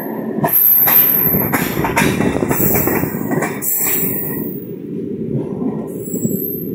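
MEMU electric multiple-unit train running along a station platform as it arrives. There is a steady rumble of wheels on the rails, with a run of sharp clicks over rail joints during the first few seconds.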